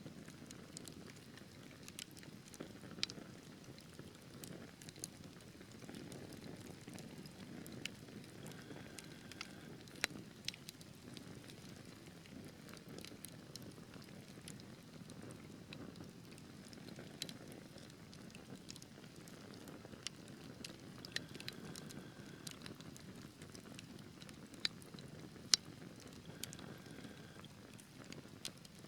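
Wood fire burning in a fireplace: a soft steady rumble of flames with irregular sharp crackles and pops from the burning logs, one louder pop near the end.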